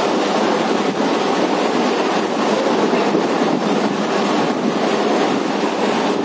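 Suburban electric local train running at speed, a steady rush of wheel-on-rail noise and wind through the open window, with faint knocks now and then.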